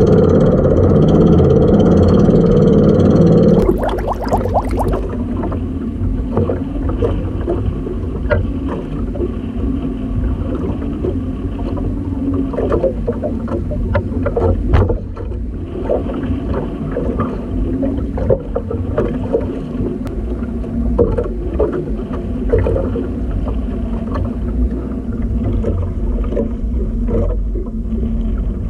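A small outrigger boat's engine running steadily, stopping abruptly about four seconds in. After that, water splashing against the hull with a low rumble and scattered knocks.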